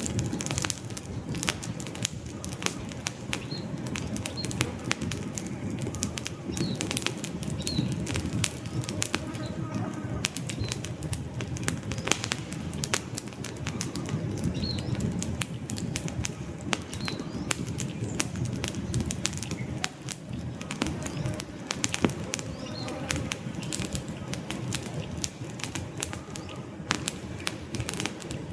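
Wood fire crackling: a dense, irregular run of sharp pops and snaps over a low, steady rush of burning logs. Faint short high chirps come through now and then.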